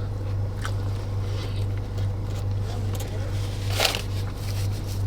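Chewing and small eating noises over a steady low hum from the car, with one brief noisy burst about four seconds in.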